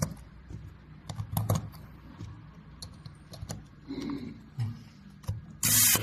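Light clicks and taps of small plastic valve parts being handled on a workbench, then a short, loud burst of noise near the end.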